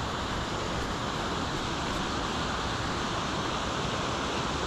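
Steady rush of fast-moving river water tumbling over rocks below the Hethpool Linn waterfall.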